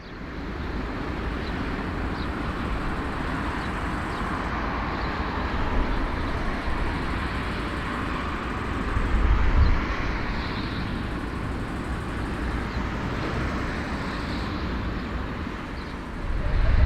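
Steady roar of a large airplane's engines, with low rumbling swells of wind on the microphone a few times.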